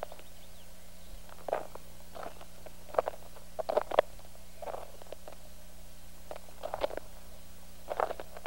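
Footsteps crunching irregularly through leaves and undergrowth on a forest floor, about a dozen steps, over a faint steady hum and tape hiss.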